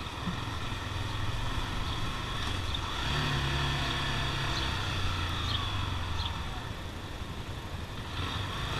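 Motorcycle engines running steadily at low revs, a deep hum that swells a little a few seconds in.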